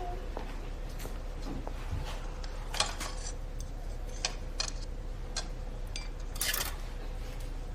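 Scattered light clicks and clinks of small hard objects, about half a dozen, over a steady low room hum.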